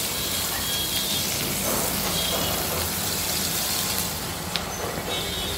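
Onion and green capsicum pieces frying gently in a little oil in a kadai over a low flame, a steady, even sizzle.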